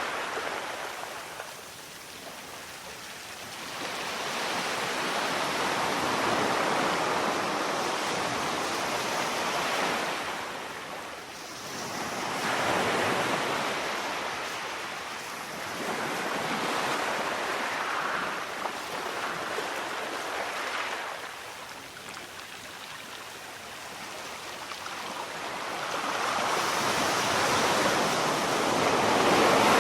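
Sea waves breaking and washing in, an even rush of surf that swells and fades in slow surges several seconds apart.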